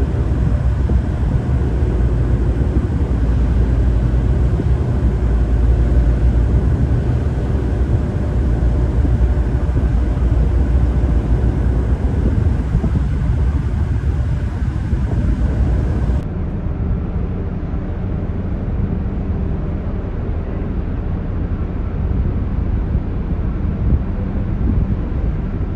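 A tugboat's engine running with a steady low hum under a continuous wash of noise. About two-thirds of the way through, the sound changes abruptly and becomes duller and slightly quieter.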